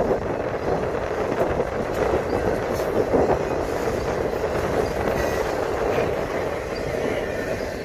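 Autorack freight cars rolling past: the steady rumble of steel wheels on rail, with a few brief knocks.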